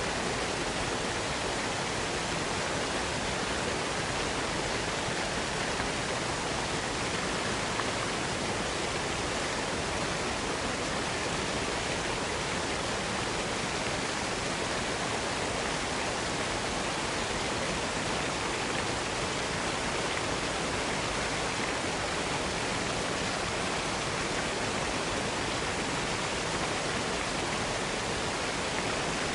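Waterfall cascade pouring with a steady, unbroken rush of water.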